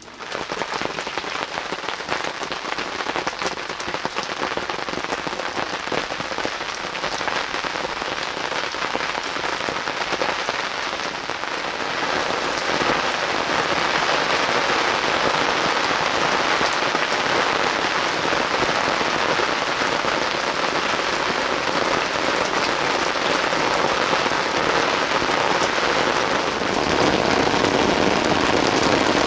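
Heavy rain pouring down: a dense, steady hiss of countless drops, growing a little louder about halfway through.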